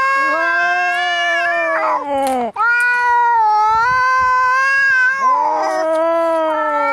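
Angry cats caterwauling as in a cat fight: long, drawn-out yowls that waver in pitch and slide downward as each one ends, one after another, three in a row.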